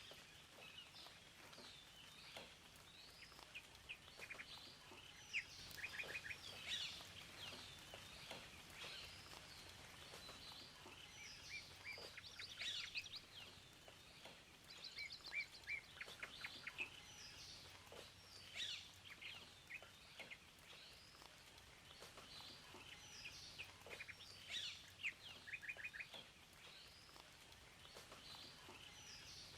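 Several songbirds singing and calling at once: quick chirps, short trills and whistled phrases, repeating with brief gaps, over a faint steady background hiss.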